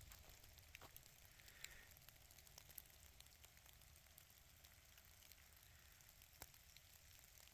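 Near silence: a faint steady outdoor hiss with scattered light ticks.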